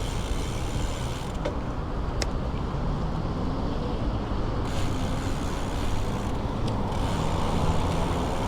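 Steady rumble of wind and road noise on a camera riding along on a bicycle, with two sharp clicks about a second and two seconds in.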